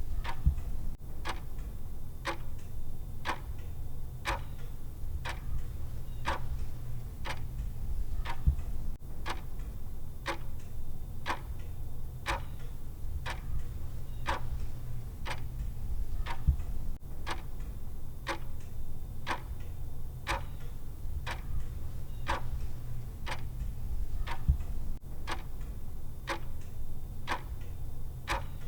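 Clock-style timer ticking, one sharp tick about every second, over a steady low hum. A stronger low thump comes about every eight seconds.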